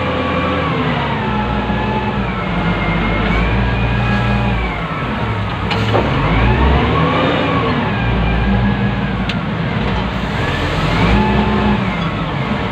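Wheel loader's diesel engine heard from inside the operator's cab, revving up and down repeatedly as the machine works, with a couple of sharp clicks along the way.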